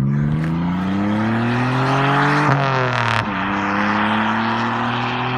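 Nissan 300ZX (Z31) V6 engine accelerating hard: the revs climb for about two and a half seconds, drop through an upshift, then pull again and rise slowly.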